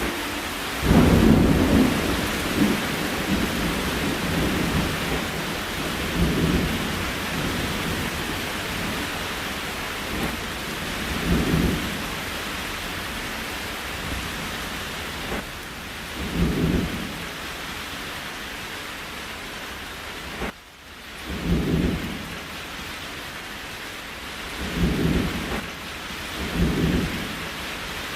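Steady rain hiss with a short, low rumble every five seconds or so. The sound briefly drops out about two-thirds of the way through.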